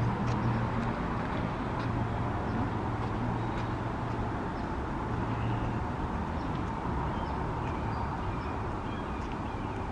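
Steady low hum over a constant background rush, the hum fading about halfway through, with faint short high chirps in the second half.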